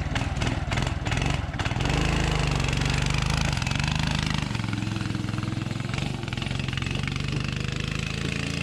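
Small single-cylinder 6.5-horsepower go-kart engine running under throttle, its note stepping up and down a few times as the kart speeds up and slows. A few sharp clicks in the first second or so.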